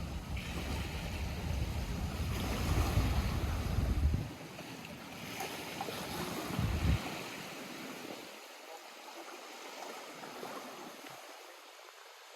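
Lake water washing and lapping at the shore. Wind rumbles on the microphone for the first four seconds and briefly again about seven seconds in, then the water goes on more quietly.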